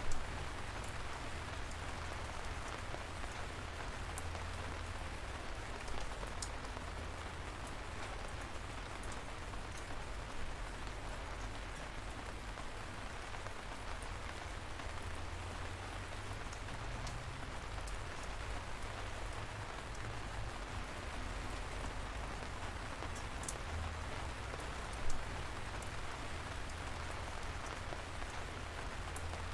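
Steady light rain falling, an even hiss with scattered individual drops ticking, and a few louder single drips now and then.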